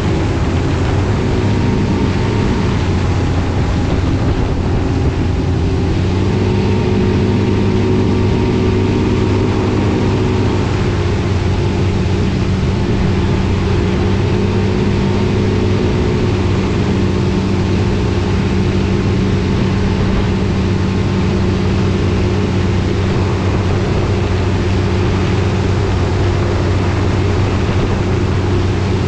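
Engine running at a steady speed with a low, even hum, its pitch shifting slightly about six seconds in and again about ten seconds in.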